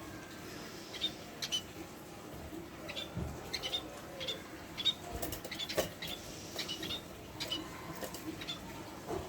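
Budgerigar chatter: many short, sharp high chirps in quick succession over a soft, low warble.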